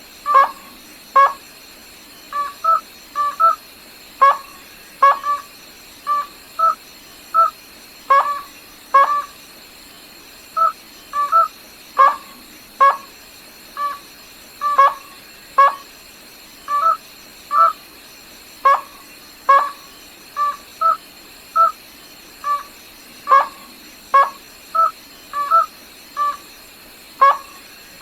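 A rail (gà nước họng trắng) calling over and over: short, clipped, pitched notes about once a second, often in quick pairs, with a steady faint high hiss underneath.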